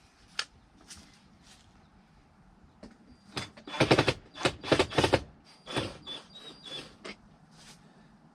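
Clicks and knocks from a Dodge Ram's plastic heater box being worked apart by hand: a single click under half a second in, then a quick run of sharp knocks and rattles in the middle, tapering off into lighter clicks.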